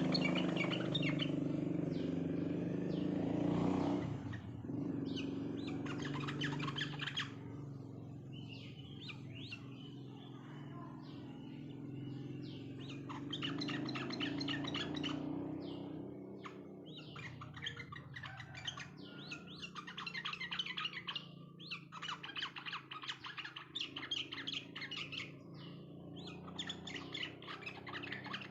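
Sooty-headed bulbuls (trucuk) singing in bursts of rapid, chattering chirps. A steady low hum runs underneath and is loudest in the first few seconds.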